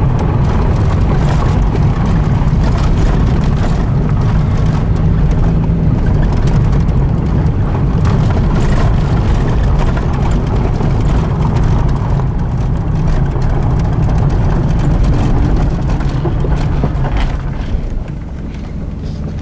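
A vehicle being driven: a steady, loud low rumble of engine and road noise that eases a little near the end.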